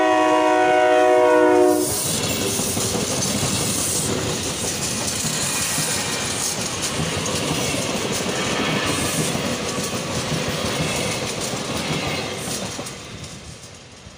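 SEPTA Regional Rail electric commuter train sounding its horn in one long blast of about two seconds as it comes in, then passing close by with a rush of wheel and rail noise that fades away near the end.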